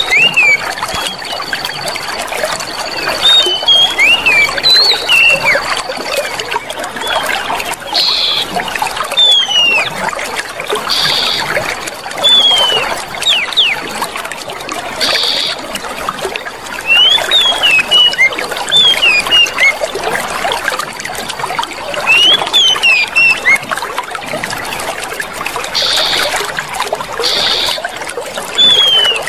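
Clear water running and trickling steadily, with small birds chirping in short, quick up-and-down notes throughout. A thin high steady tone runs through the first few seconds, and a handful of brief high buzzes come at intervals.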